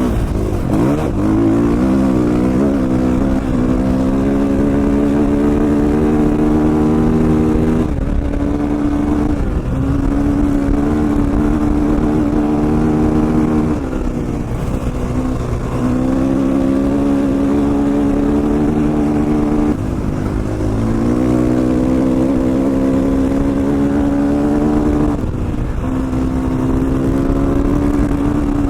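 KTM 450 XC-F's single-cylinder four-stroke engine pulling under load while being ridden: its note climbs slowly, then drops sharply four times, about every five to six seconds.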